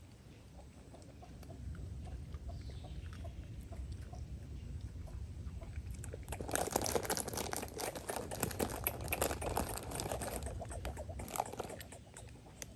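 An animal chewing and crunching food: quiet at first, then a dense run of rapid crunching bites from about six seconds in that fades near the end.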